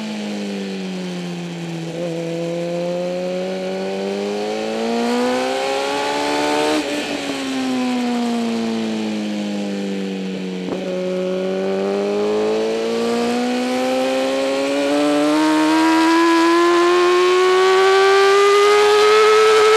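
2008 Kawasaki ZX-10R's inline-four engine at racing speed, its pitch rising and falling through a corner sequence. It slows, pulls hard until a break about seven seconds in, drops off again, and from about eleven seconds in climbs steadily under full acceleration.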